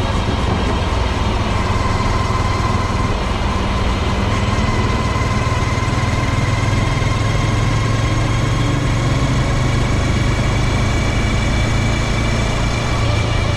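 2022 Honda Grom's small single-cylinder engine running at a steady speed: a continuous low hum with a thin, steady whine riding above it that drifts slightly in pitch.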